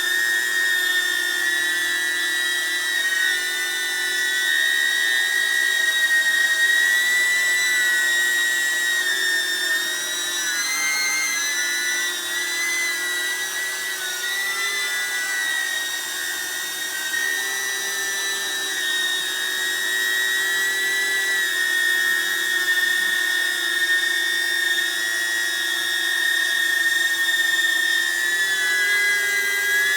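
DJI Neo mini drone with Gemfan D51 five-blade propellers, hovering: a steady high-pitched propeller whine whose pitch wavers slightly about ten seconds in and again near the end.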